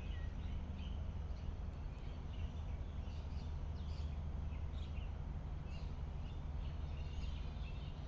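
Birds chirping, with short scattered calls over a steady low background rumble.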